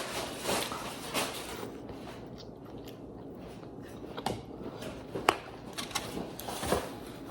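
Someone chewing food close to the microphone, soft wet mouth sounds broken by a few sharp clicks, the loudest about five seconds in.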